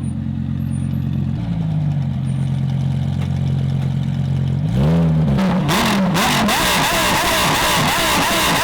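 Car engine running at a steady idle, then blipped at about five seconds. It then goes to hard throttle, and the sound becomes a loud, harsh exhaust note with rapid crackling as the car accelerates away.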